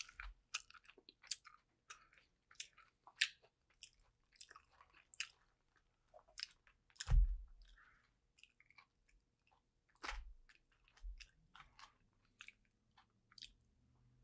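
Close-miked chewing of a vegetarian dumpling: many short, wet mouth clicks and smacks, with a dull thump about seven seconds in and a smaller one about ten seconds in.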